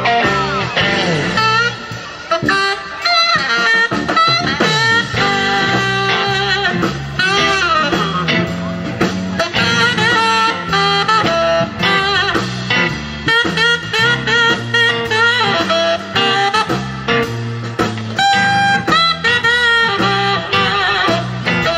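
Band playing an instrumental blues passage with no singing: a lead line bends and slides in pitch over the backing.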